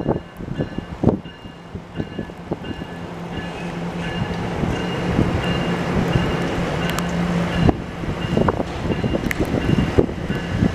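NJ Transit bi-level electric commuter train pulling out and rolling past, with a steady electric hum and a faint whine, scattered wheel clicks on the rails and rising rolling noise. Gusts of wind buffet the microphone near the start and end, and rain is falling.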